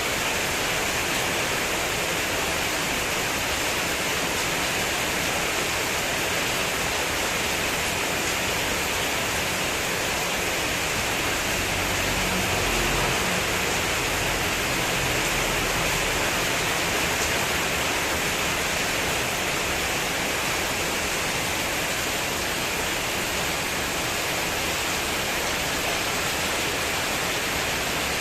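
Heavy rain falling steadily on a spandek metal roof sheet, with wind. A low rumble swells briefly about halfway through.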